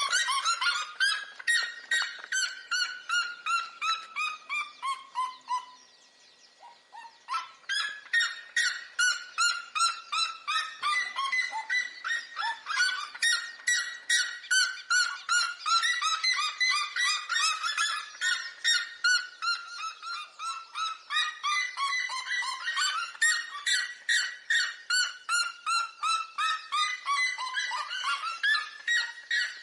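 Red-legged seriemas calling: long series of yelping notes, about three or four a second, each series sliding down in pitch, with two voices overlapping as in a duet. There is a brief lull about six seconds in.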